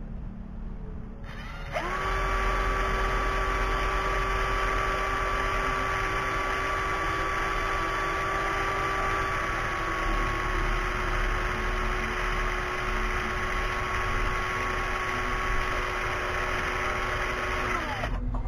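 Harbor Freight cordless drill running steadily, its motor whine starting about two seconds in and cutting off just before the end, as the bit bores into a broken plastic dipstick.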